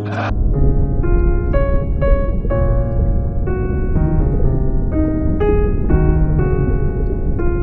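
Keyboard music: electric piano notes changing about twice a second, over a steady low rumble.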